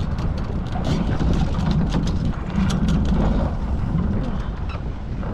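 Wind buffeting the microphone on a Hobie 14 catamaran under sail, a loud steady rumble, with water splashing and hissing against the hull in many short crackles.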